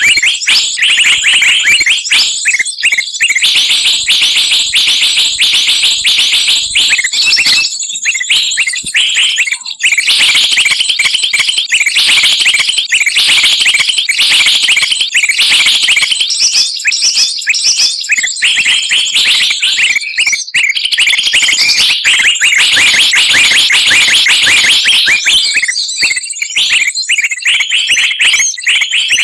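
Dense, loud chorus of many small songbirds chirping and trilling over one another without pause: a mixed-species bird-lure recording, played to draw wild birds down.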